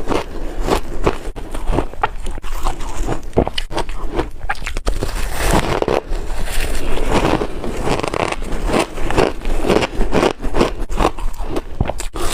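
Close-up biting and crunching of chunky ice, with dense, irregular crackling crunches as the chunks break between the teeth.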